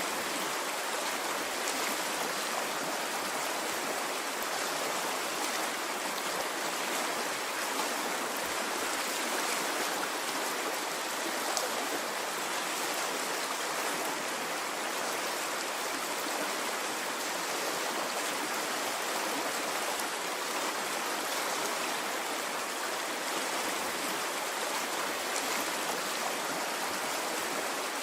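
Water in a flowing stream, rushing steadily with an even hiss and no rise and fall of waves.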